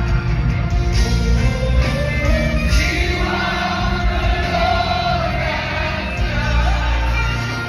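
Live gospel worship music: a band with heavy bass under a group of voices singing together.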